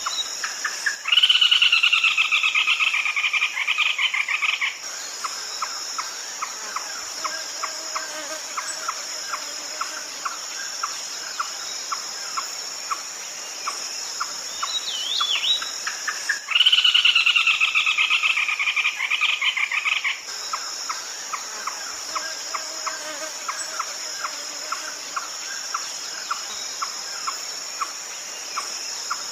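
Red-legged crake calling: two loud, harsh, rapid trills of about three and a half seconds each, roughly fifteen seconds apart, with a steady run of single sharp notes about two a second between them. A constant high insect drone runs underneath.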